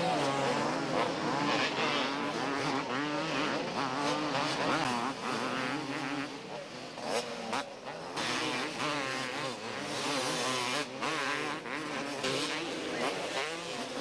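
Several 250cc two-stroke motocross bikes racing, their engines buzzing and revving up and down in pitch over and over.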